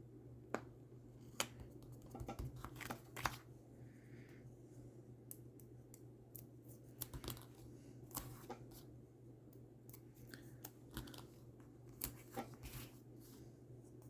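Light crafting sounds of cardstock being handled and stuck together: scattered small clicks and taps, a few closer together about two to three seconds in, over a faint steady hum.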